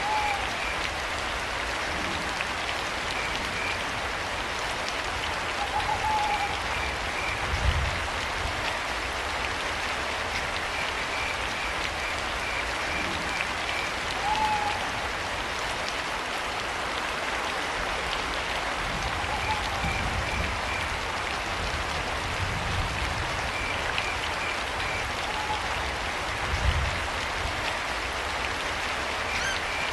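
Steady rain with crickets chirping in short trains and an owl giving short calls every several seconds. A few brief low rumbles rise out of the rain.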